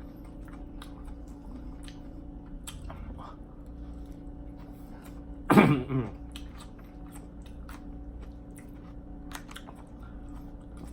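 Close-miked chewing of a mouthful of bibimbap with crisp raw vegetables, with wet mouth clicks and light crunching. About halfway through comes one short, loud vocal sound that falls in pitch.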